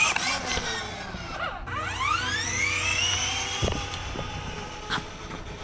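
Child's electric ride-on motorbike whining: the pitch falls, then rises again from about two seconds in and holds steady, with a couple of small knocks near the end.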